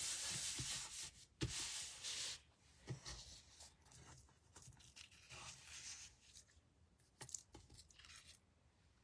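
Paper being handled on a craft desk: a steady, firm rubbing of cardstock for the first two seconds or so, then scattered rustles and small clicks as the pieces are moved.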